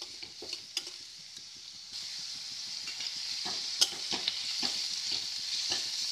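Sliced onions sizzling in hot oil in a wok while a spatula stirs them, with scattered scrapes and taps of the spatula on the pan. The sizzle grows louder about two seconds in.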